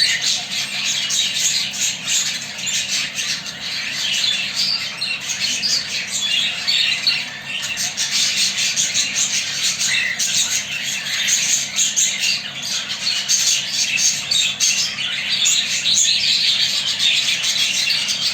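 Budgerigars chattering and squawking in a steady, busy stream of quick high chirps.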